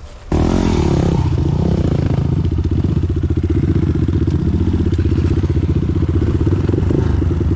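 Dirt bike engine running steadily at idle, coming in suddenly about a third of a second in.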